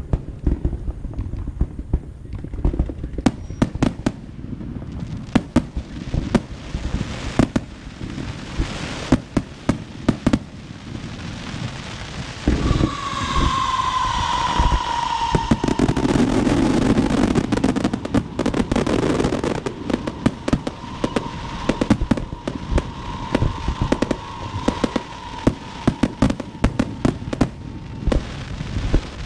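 Fireworks and firecrackers going off in rapid, irregular bangs. About halfway through a whistling firework gives a falling whistle, followed by a denser stretch of crackling.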